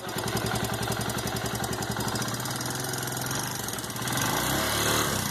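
Suzuki Yes 125 motorcycle's single-cylinder engine idling with a knock from the top of the engine, about the cylinder head. The owner has already adjusted the valves and suspects the cam chain or the rocker arms.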